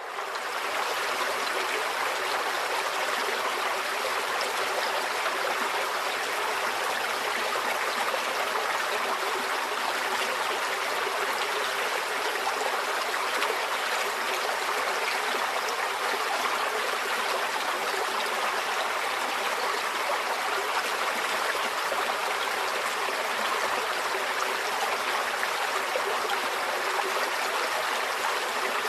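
Forest stream flowing: a steady, even rush and burble of water, fading in at the very start and then holding level.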